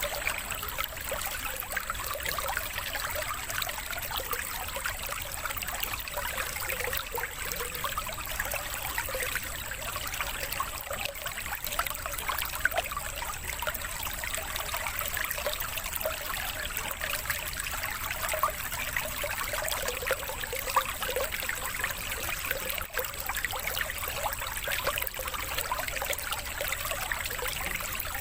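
Steady trickling, flowing water, like a small stream, played as a water-therapy sound for caged songbirds.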